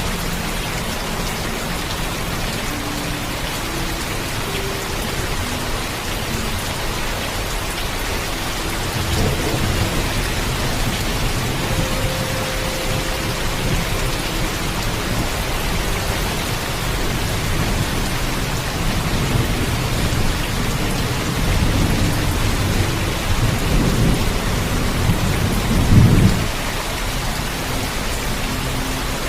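Heavy, steady rainfall with thunder rumbling low in slow swells, a first one about a third of the way in and more toward the end, the loudest near the end.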